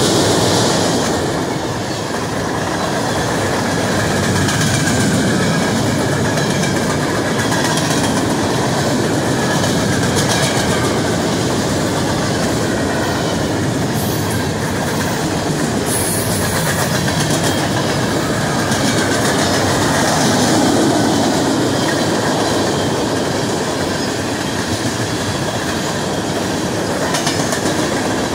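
Freight cars of a fast-moving freight train rolling past close by: a steady rumble and clatter of steel wheels running over the rails.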